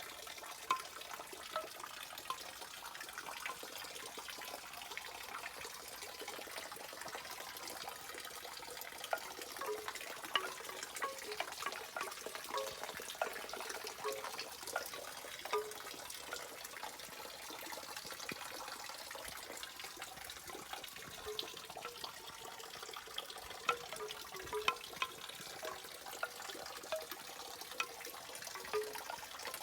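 Rain falling steadily on a clematis plant: an even hiss with many single drops tapping and plinking, some irregularly louder than the rest.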